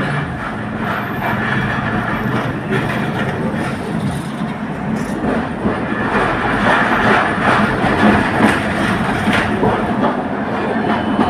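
Milan tram running along street track: a steady rolling rumble of wheels on rails with scattered clicks and knocks, growing louder about halfway through.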